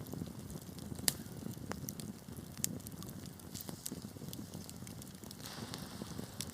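Wood fire crackling in a fireplace: a steady low rumble of flames under scattered sharp pops, the loudest about a second in. A brief hiss comes near the end.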